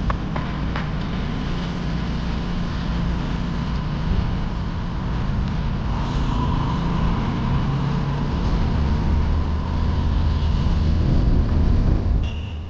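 Street traffic rumbling steadily, with a vehicle engine growing louder over the last few seconds before easing off near the end.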